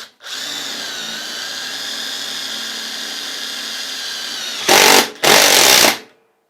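Brushless cordless impact driver running a self-drilling screw into 5 mm steel flat bar: a steady motor whine for about four and a half seconds as the screw drills through. Near the end come two loud rattling bursts of the impact mechanism hammering as the screw seats.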